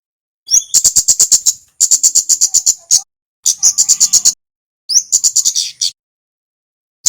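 A small songbird sold as the kemade calls in four bursts of about a second each. Every burst is a fast run of sharp, high chip notes, about ten a second.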